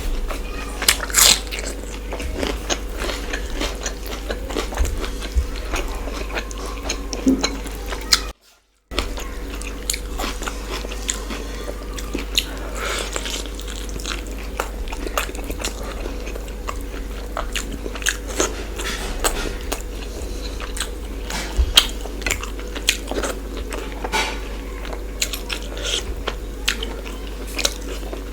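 Close-miked eating: biting and chewing chicken masala and rice, with many small clicks and crunches of mouth and food. The sound cuts out completely for about half a second around eight seconds in.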